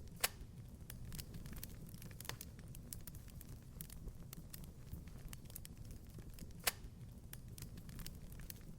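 Wood fire crackling in a fireplace: a steady scatter of small ticks over a low rumble, with two sharper pops, one just after the start and one near the end.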